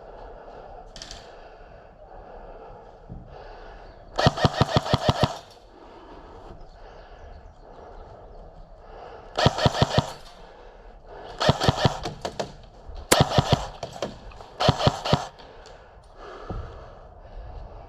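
Airsoft rifle firing five short full-auto bursts of rapid, evenly spaced shots, with pauses of a few seconds between them.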